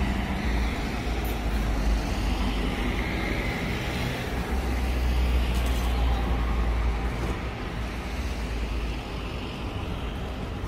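A steady low rumble under an even hiss, like vehicle or traffic noise, swelling for a few seconds in the middle.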